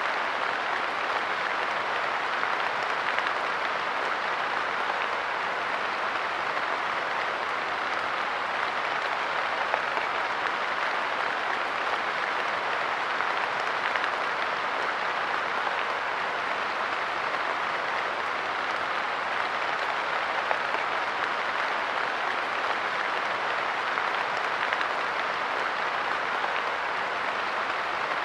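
Light rain falling steadily on a park bench, an even patter with scattered slightly louder drops.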